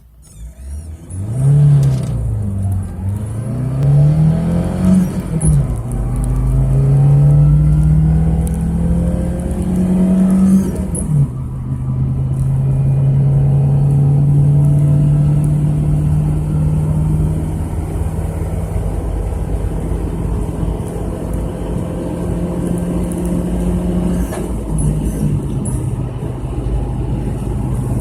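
Lada Niva's four-cylinder engine accelerating hard. The revs climb and fall back several times in the first eleven seconds as it shifts up through the gears, then it holds a steady drone at speed, with a slight dip in pitch near the end.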